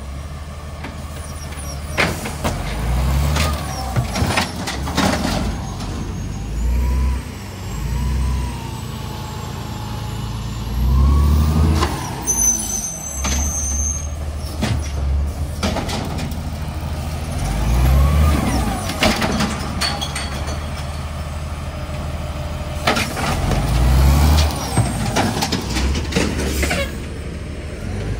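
Garbage truck working at close range: its diesel engine repeatedly surges up and back down, with scattered clanks and air-brake hisses.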